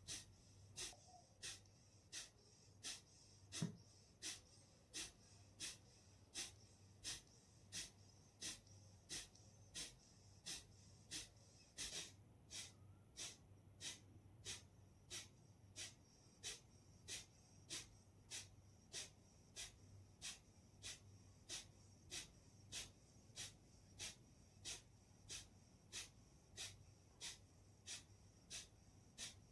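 Kapalbhati breathing: short, forceful exhalations through the nose, each a brief hiss, in a steady rhythm of about one and a half a second.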